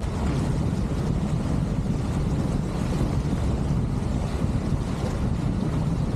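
Strong wind buffeting the microphone aboard a G-Force 1400 catamaran sailing fast in gusty 15-35 knot winds, a loud, steady rush heaviest in the low end.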